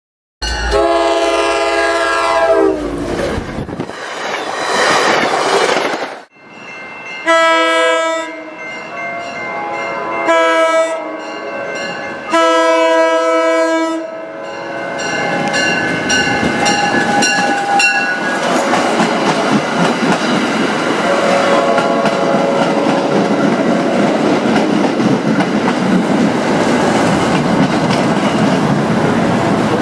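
Locomotive air horn sounding a chord in several blasts, then a train rolling past with steady wheel noise and clickety-clack over the rail joints.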